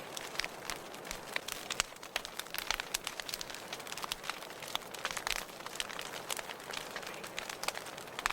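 Wood fire burning in a fireplace: a steady soft hiss with frequent irregular crackles and pops.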